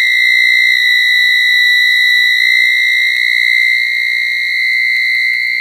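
A 1980s microwave oven giving a loud, continuous high-pitched tone, the strange noise it has made since a power blackout. The pitch steps up slightly about four seconds in, with a few faint ticks.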